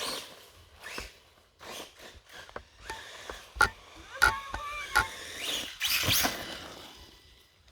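1/10 Redcat Volcano RC truck on a 4S brushless system driving in bursts: short noisy rushes from the tyres and motor, with three sharp knocks in the middle and brief squeaks.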